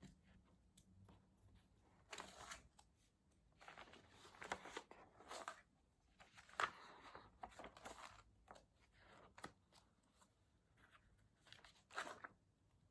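Faint rustling and handling of paper in irregular bursts, with a few sharp clicks.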